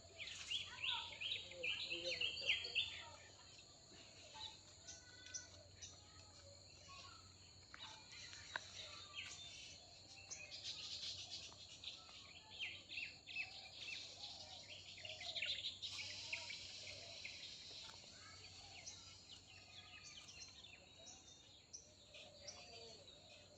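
Dawn chorus of several birds chirping and singing, busiest in the first few seconds and again around the middle, over a steady high hum.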